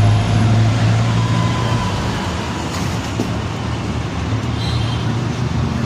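A motor vehicle's engine running steadily, a low hum over a background of road noise.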